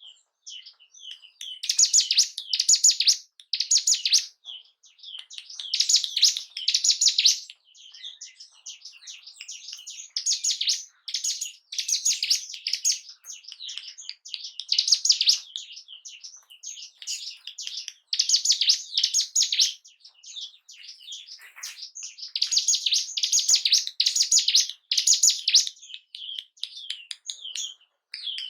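Ciblek gunung (a prinia) singing: loud bursts of rapid, high chattering song, one to two seconds each, repeated every couple of seconds with softer chirps in between.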